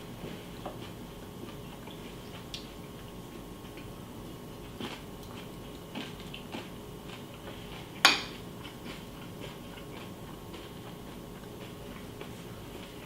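A metal spoon clinking against a cereal bowl: scattered light clicks at uneven intervals, with one loud, sharp clink about eight seconds in.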